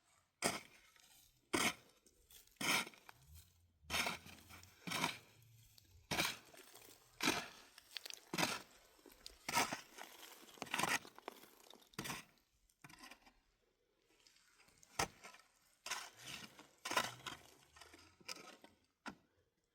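A run of short crunching, scraping strokes, about one a second, some sixteen in all, with a brief pause about two-thirds of the way through.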